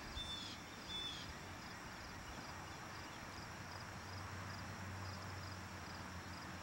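A small bird gives two short, high chirps about a second apart near the start, over steady outdoor background hiss with a faint, regular high ticking.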